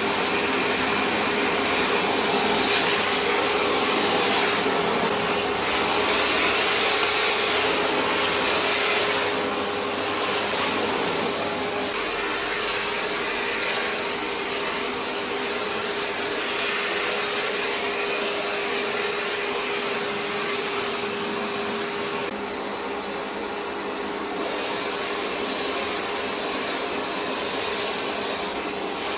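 An electric appliance motor running steadily with a loud rush of air and a constant hum, having just spun up to speed.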